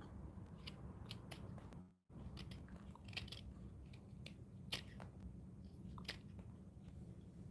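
Irregular short, crisp clicks and crunches of a carving tool cutting into wood by hand, over a low steady hum. The sound cuts out briefly about two seconds in.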